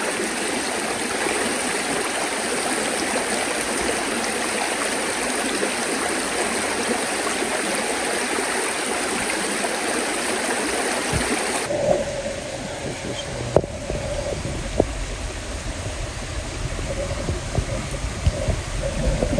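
A creek's water rushing steadily. About twelve seconds in, the sound cuts abruptly to a quieter, different background with a low rumble and a few sharp clicks.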